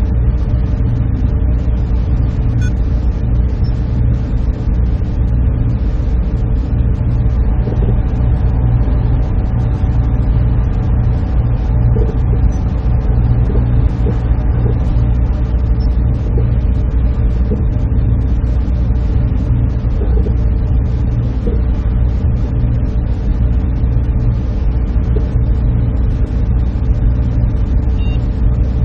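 Server room equipment running: a steady, unbroken machine hum with a few held tones over a deep low drone.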